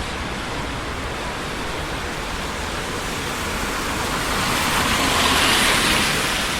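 Steady traffic noise from a busy city street, a continuous hiss of tyres and engines, with one vehicle passing close and swelling to a peak about five seconds in before fading.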